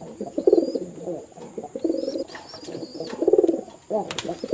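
Several domestic pigeons cooing, their low throaty calls repeating about once a second and overlapping. Faint short high chirps sound over them, and there is one sharp click about four seconds in.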